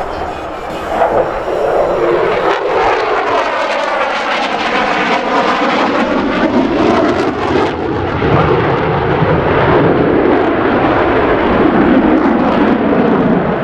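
F-16 Fighting Falcon's General Electric F110 afterburning turbofan, loud and continuous as the jet flies its demonstration manoeuvres. From about three to eight seconds in, a swirling, phasing sweep passes through the jet noise as the fighter goes by.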